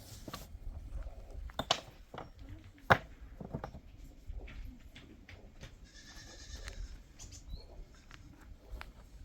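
A goat bleats once, a high call about six seconds in, among scattered knocks and clicks; a single sharp knock about three seconds in is the loudest sound.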